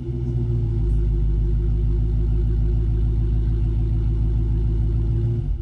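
Dodge Challenger Scat Pack's 392 HEMI V8 idling steadily through its stock exhaust, the exhaust baffles held open. It cuts off abruptly near the end as the engine is switched off.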